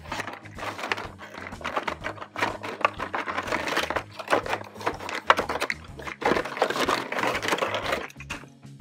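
Toy packaging being opened by hand, crinkling and crackling in a dense run of irregular rustles and clicks that stops shortly before the end.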